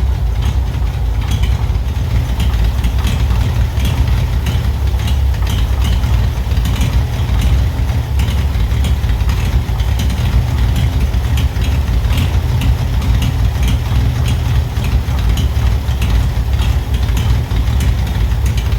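Oliver 70 tractor's six-cylinder gasoline engine running unevenly at idle, with a light ticking over it. It is still not smooth: its carburettor is flooding and running too rich, which the owner takes for the cause.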